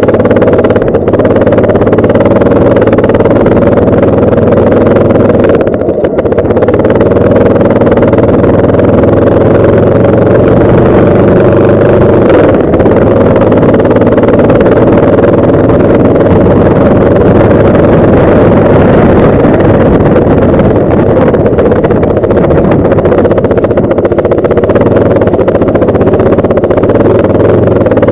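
Yamaha Lander 250 single-cylinder motorcycle engine running steadily under way, loud and unbroken.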